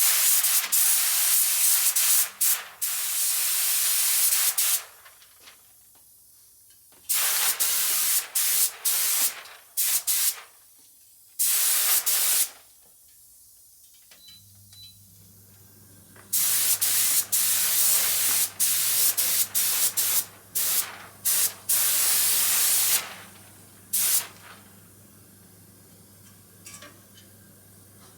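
Repeated bursts of high spraying hiss from a spray nozzle, switched on and off, each one to five seconds long with quiet gaps between.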